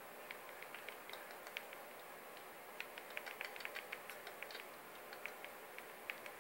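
Faint, irregular light clicks and ticks, several a second and denser in the middle, over a steady low hiss.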